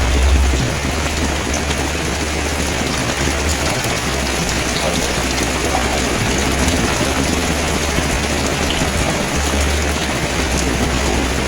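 Steady rain falling, an even hiss of drops on the surfaces around, with a low rumble underneath that swells and drops back.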